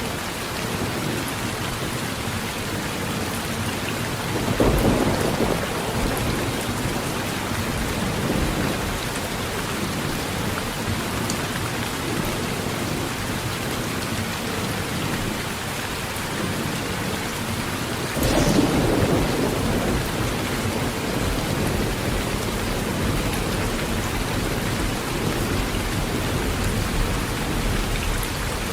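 Heavy rain falling steadily on a tin roof, with two rolls of thunder: one about five seconds in and a louder one about two-thirds of the way through, each swelling suddenly and fading over a couple of seconds.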